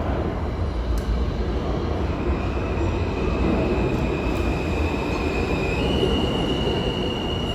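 New York City subway train running on the tracks with a steady low rumble. A high-pitched wheel squeal starts about two seconds in and steps up in pitch near the end.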